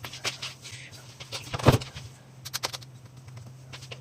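Light clicks and knocks of objects being handled, with one louder knock about 1.7 s in, over a steady low hum.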